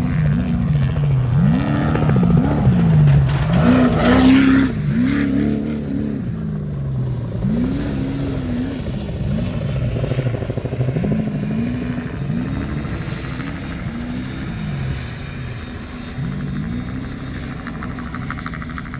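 Off-road race truck engine revving hard and easing off over and over, its pitch climbing and dropping every second or two, with a loud rush about four seconds in.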